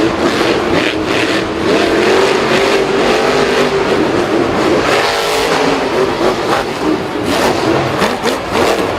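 Racing vehicle engines revving, their pitch wavering up and down.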